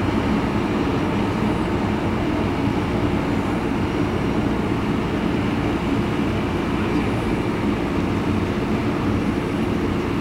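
Freight train of tank cars and boxcars rolling past, a steady rumble of steel wheels on the rails.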